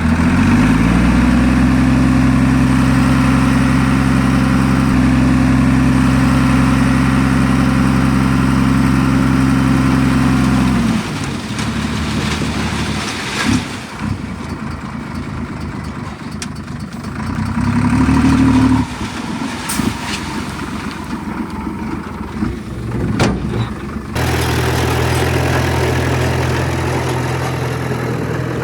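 Diesel engine of heavy earthmoving equipment running hard, a steady drone that rises slightly in pitch at first and cuts off about eleven seconds in. A quieter stretch of machine noise and knocks follows, with a brief rev about two-thirds of the way through, and the engine drone returns at a lower pitch near the end.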